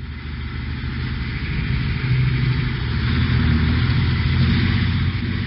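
Truck engine running with a deep, steady drone, growing louder over the first few seconds.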